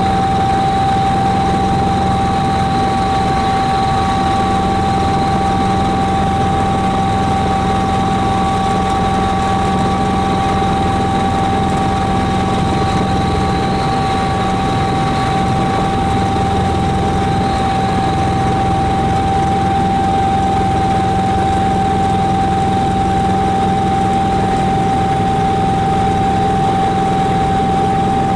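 Helicopter in flight heard from inside the cabin: a steady engine and rotor drone with a constant whine running through it.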